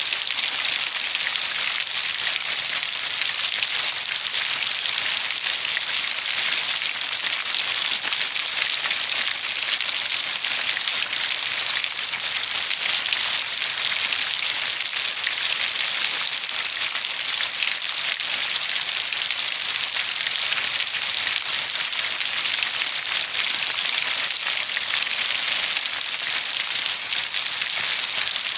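Steady rainfall: an even hiss of many fine raindrops pattering on a surface, with no lulls or thunder.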